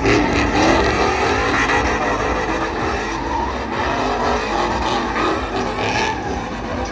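Vehicle engine revving hard with tires squealing and skidding, as in a burnout.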